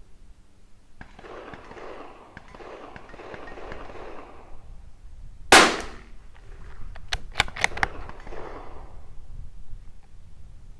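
A single shot from a Tikka T1x bolt-action .22 LR rifle. About a second and a half later comes a quick run of sharp metallic clicks as the bolt is worked for the next round.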